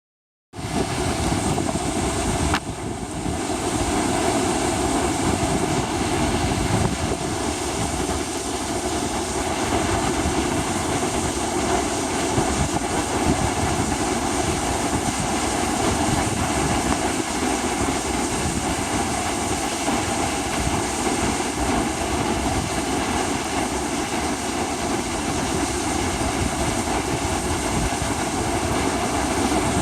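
Storm wind and rough sea: a continuous rushing roar with gusty low rumbling, as wind buffets the microphone over heavy surf.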